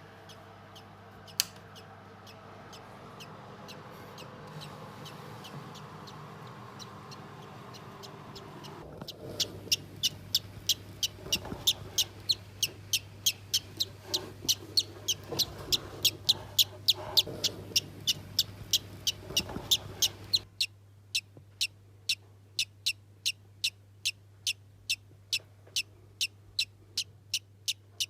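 A small parrot giving short, sharp, high-pitched chirps over and over, about three a second, starting about nine seconds in. The first part holds only a low murmur and hum.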